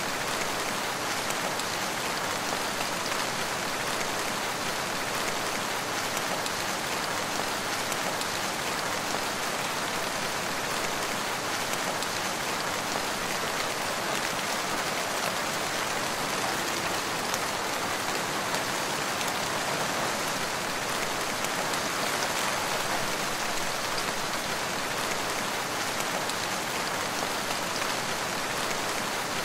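Steady rain falling on a forest, an even hiss of many raindrops.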